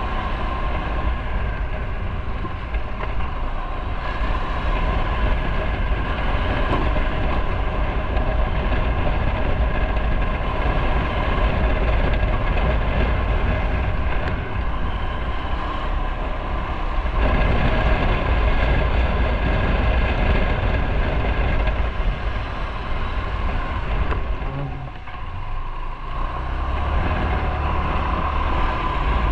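Motorcycle engine running steadily under way, a constant engine note over a low rumble. The note eases briefly about 25 seconds in, then picks up again.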